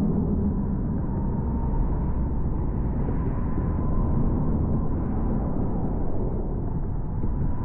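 Car driving at highway speed: a steady low rumble of tyres and engine, with a faint thin whine above it.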